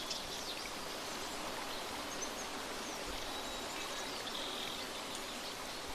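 Steady rushing water, like a stream, in a nature ambience, with a few short bird chirps, one just after the start and another about four and a half seconds in.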